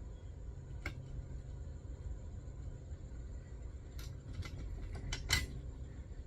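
Hand tools and metal hardware being handled, making a few scattered light metallic clicks and clinks, the loudest about five seconds in, over a low steady rumble.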